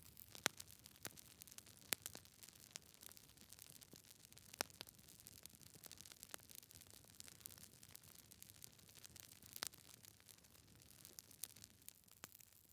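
Wood fire burning in a fireplace: logs crackling, with irregular sharp pops over a soft hiss.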